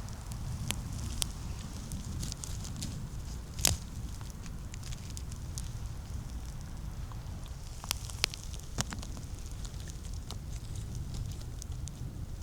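Footsteps on the forest floor, crunching through dry leaf litter and twigs, with scattered sharp snaps and cracks. The loudest snap comes about three and a half seconds in, and a few more come around eight seconds in.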